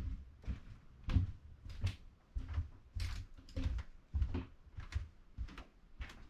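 Footsteps at a steady walking pace, about three steps every two seconds, each a short dull thud.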